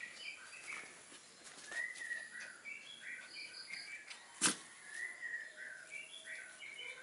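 Birds singing in the background: one repeats a short warbled phrase about every three seconds, with higher chirps around it. A single sharp click about four and a half seconds in.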